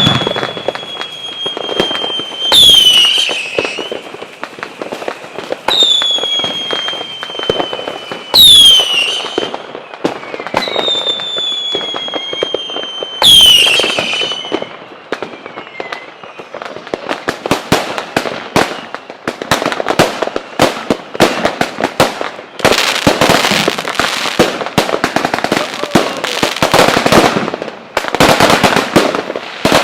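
Fireworks display. Three long whistling fireworks, each a slightly falling whistle ended by a loud bang, come in the first half. Then comes a dense, rapid crackling and popping of many fireworks that thickens into near-continuous crackle near the end.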